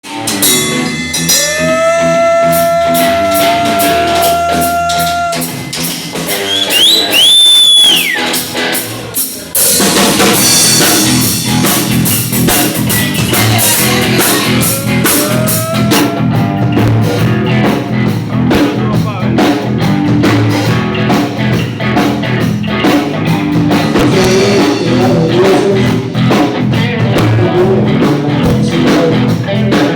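Rock and roll band playing: a guitar starts alone on long bent notes, then about ten seconds in the drums and the rest of the band come in with a steady driving beat.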